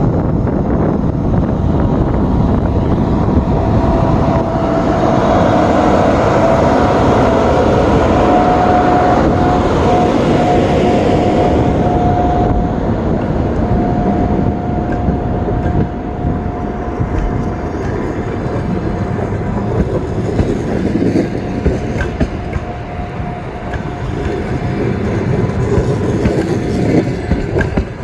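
A train running along the track: a steady rumble of wheels on rails, with a steady high whine held from a few seconds in until near the end.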